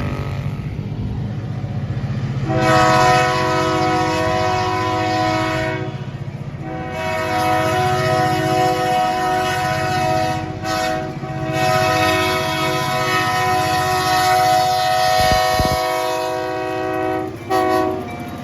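Diesel freight locomotive's air horn sounding a chord in two long blasts, the second held about ten seconds, then a short blast near the end, over the low rumble of the locomotive's engine working hard uphill.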